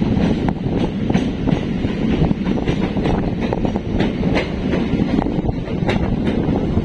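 Passenger train carriage in motion: a steady rumble with frequent irregular clicks of the wheels running over the rails.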